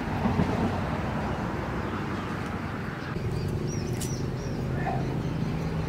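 Outdoor background: a steady low rumble, with a small bird chirping a quick run of high notes about three and a half seconds in.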